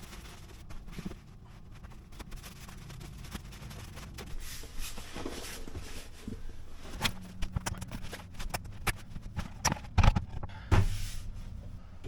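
Scattered knocks and clicks over a low steady rumble, growing busier about seven seconds in, with two heavy thumps near the ten-second mark.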